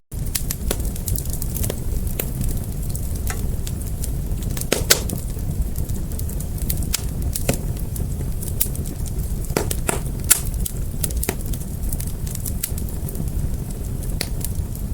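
Wood fire burning with a steady low rumble of flames and irregular sharp crackles and pops, a few of them louder.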